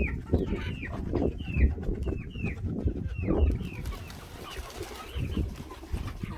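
Pigeons in a loft cooing, with short high chirps falling in pitch repeated about twice a second that stop about halfway through.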